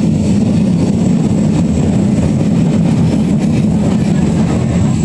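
Berlin U-Bahn H95 train running on the track: a loud, steady low rumble that starts to die away right at the end.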